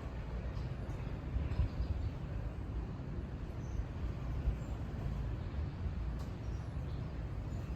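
Wind buffeting the microphone outdoors under gathering storm clouds: a steady, uneven low rumble.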